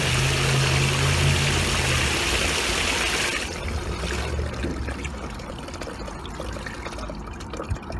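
Florabest FTP 400 D3 submersible sump pump running: a low motor hum under loud rushing, splashing water as it pumps out the sump. The rushing dies down about three and a half seconds in, leaving a quieter flow.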